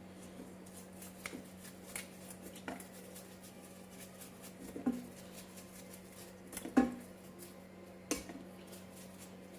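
Small metal carburetor parts clinking and tapping as they are handled and set down, a few scattered knocks with the loudest about seven seconds in. A steady low hum runs underneath.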